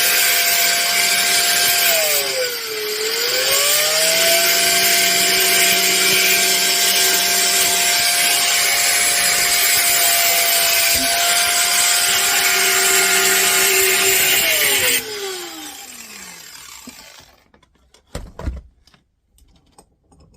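A handheld power tool's motor running at full speed and grinding into a vise-held turntable tone arm to cut through the paint and show whether the metal is brass. It bogs briefly about two and a half seconds in and recovers. About 15 s in the grinding stops and the motor winds down, followed by one knock.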